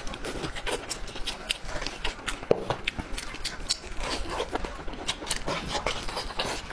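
Close-miked eating sounds: wet chewing, lip smacks and sucking as meat is gnawed off a braised bone, an irregular run of quick clicks.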